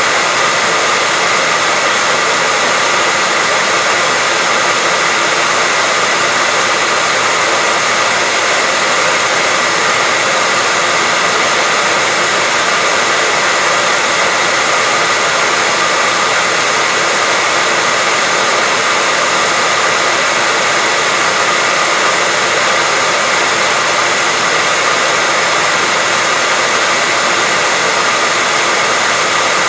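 Electric hair dryer running continuously at constant speed: a steady rush of air with a steady whine from the motor running through it, used as white noise to lull a baby to sleep.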